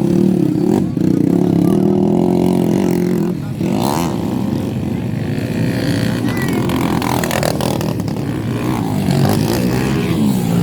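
Honda XRM underbone motorcycles' single-cylinder four-stroke engines racing, revving with pitch rising and falling as the throttles open and close, several engines overlapping.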